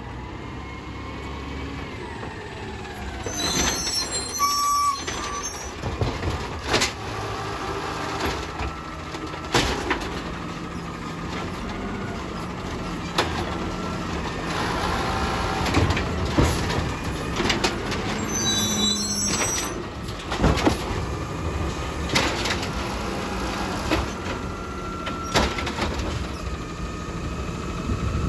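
Recycling garbage truck working at the curb: its engine runs steadily, sharp knocks and bangs come every few seconds, and high metallic squeals come twice, about three seconds in and again near nineteen seconds.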